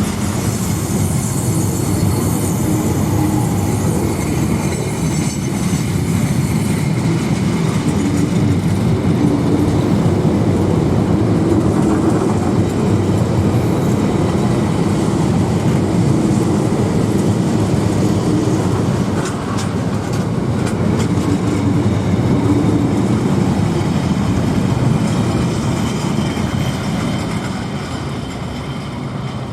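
A train running past on the rails with a steady heavy rumble. A thin high squeal sounds over the first several seconds, and the sound eases off near the end.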